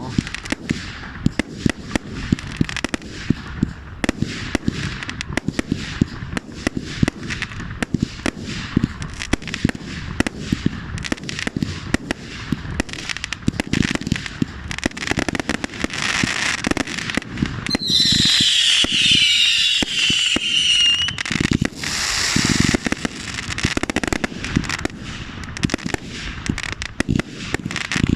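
Firework cake barrage firing: a rapid, unbroken run of sharp bangs and crackles, several a second. About 18 seconds in, a shrill, wavering whistle sounds over the bangs for about three seconds, falling slightly in pitch.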